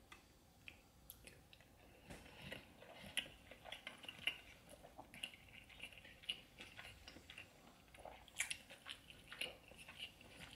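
Close-miked eating sounds: soft, wet chewing and lip smacking with many small clicks, as someone eats food from a seafood boil in butter sauce, growing busier about two seconds in.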